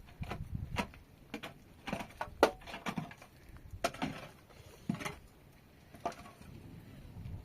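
Irregular knocks and taps, about one or two a second, some with a dull thud.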